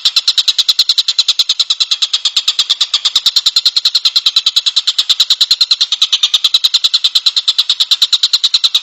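Collared kingfisher (tengkek buto) calling: a fast, even series of sharp, high notes, about nine a second, kept up without a break.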